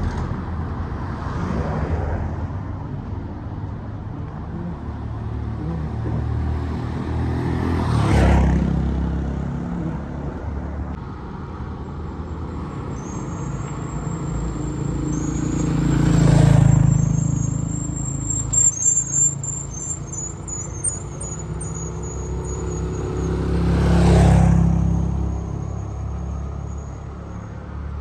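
Road traffic: vehicles pass close by one after another over a steady low rumble, three of them swelling up loudly and fading away. A quick run of short sharp sounds comes about two-thirds of the way through.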